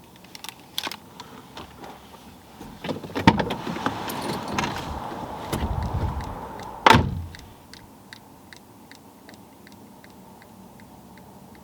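Movement inside a parked car: clicks and rustling, then a car door shutting with a thud about seven seconds in. After the thud come light, regular ticks, about three a second.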